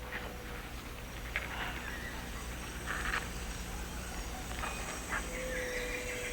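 Tropical forest ambience: scattered short chirps and clicks from small animals over a low steady hum, with a buzzy trill starting about five seconds in.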